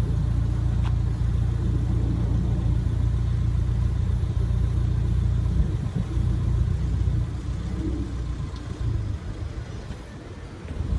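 Car running: a steady low engine and road rumble that eases off about seven seconds in and is quietest shortly before the end.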